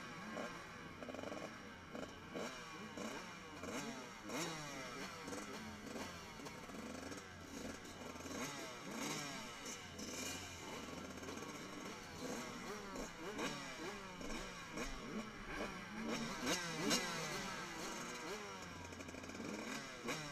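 Several motocross bikes racing together, their engines revving up and dropping back over and over as they change gear, overlapping, with one sharper, louder burst about three-quarters of the way through.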